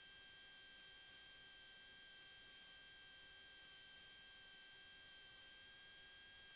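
Electrical whine in the cockpit intercom audio: a steady high tone, with a short chirp about every second and a half that drops sharply and then glides back up. No engine noise comes through.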